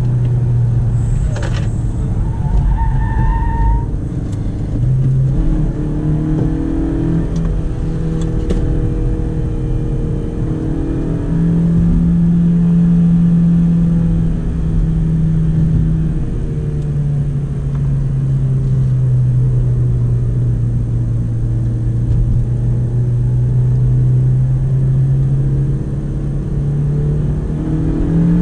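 Honda Civic 1.8-litre four-cylinder engine heard from inside the cabin under hard driving. The engine note climbs in steps to its highest pitch around the middle, holds there for a few seconds, then drops back and runs steady at lower revs before rising again near the end.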